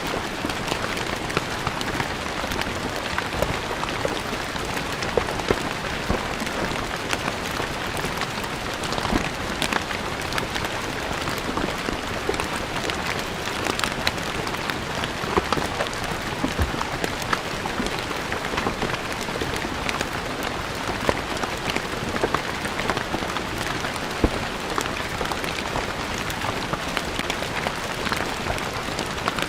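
Steady rain falling on stone paving, a dense patter of individual drops striking the hard surface.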